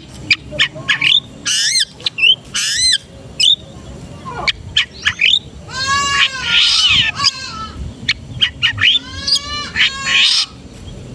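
Long-tailed shrike (cendet) singing a rapid, varied song of sharp clicks, harsh chattering notes and rising and falling whistles, full of the mimicked calls of other birds that make up its 'isian' (fill).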